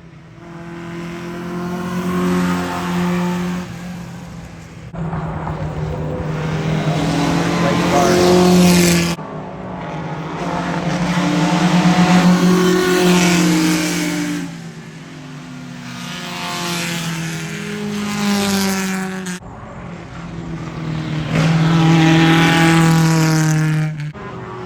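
Vintage race cars at racing speed passing one after another, each pass swelling and fading away. The sound cuts off suddenly between passes several times.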